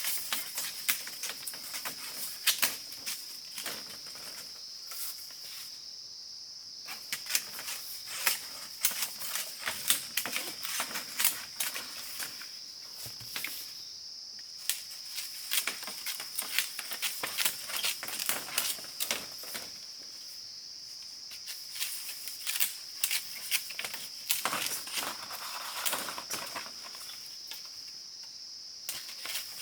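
Insects droning steadily on one high tone, with many irregular sharp clicks and light taps over it.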